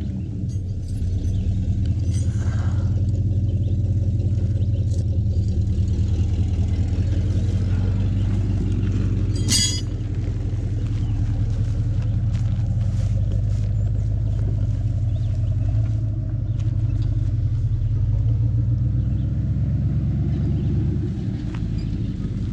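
Vehicle engine running steadily at idle, with scattered light clicks and one sharp clatter about nine seconds in.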